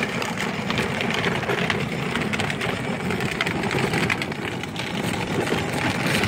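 Battery-powered Power Wheels ride-on toy truck driving along: its small electric drive motors whirring and its hard plastic wheels rolling over rough ground with a steady crackle.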